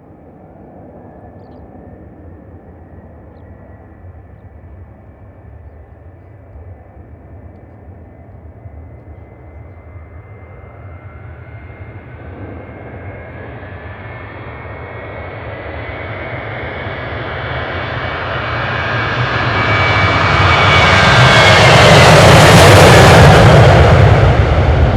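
Boeing 737-800's CFM56-7B jet engines at takeoff power, a steady whine over a rumble growing louder as the airliner rolls closer, peaking very loud about 22 seconds in as it passes, the whine dropping in pitch as it goes by.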